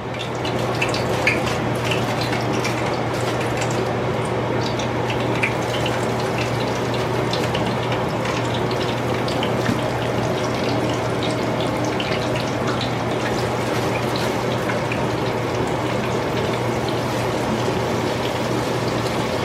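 Chicken wings frying in hot cooking oil in a pot: a steady sizzling hiss with many small crackling pops.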